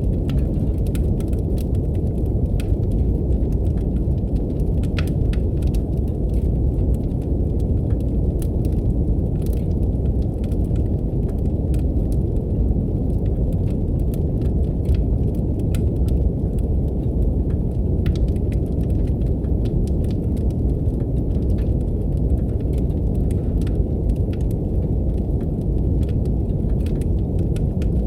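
Steady brown noise, a deep even rumble, with wood fire crackling in a fireplace laid over it: scattered small pops and snaps.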